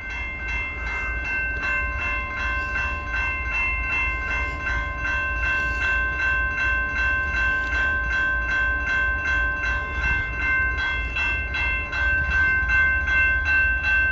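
Railroad grade-crossing warning bell ringing rapidly and evenly, about three strikes a second, over a steady low rumble.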